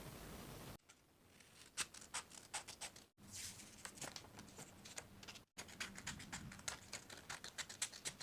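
Small scratching, tapping and rustling of craft materials being handled, cardboard, paper and tape worked by hand, in short irregular clicks; the sound cuts off abruptly a few times.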